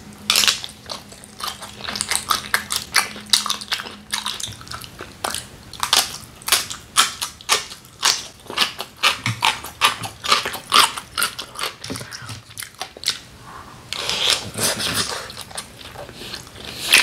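Close-miked chewing of a big mouthful of cockle and raw beef bibimbap, a long run of quick, irregular wet mouth clicks and soft crunches, then a bite of pickled radish.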